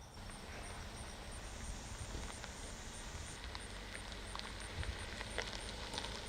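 Steady background ambience with a low rumble and a few scattered faint clicks.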